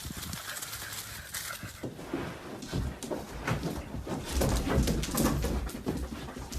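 Animal noises with irregular knocks and scuffling, louder from about two seconds in.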